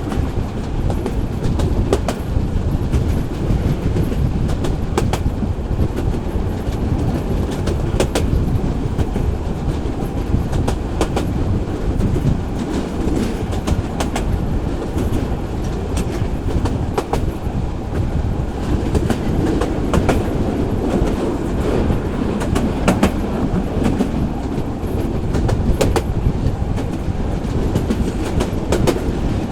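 Local passenger train running along the track with a steady low rumble, its wheels clacking over rail joints every second or few.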